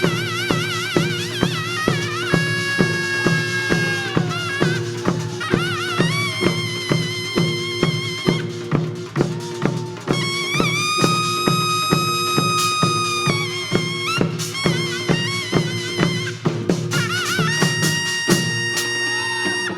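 Korean traditional music accompanying a Jindo drum dance: steady drum beats, about two a second, under a high wind-instrument melody with wavering, bending notes and a few long held ones.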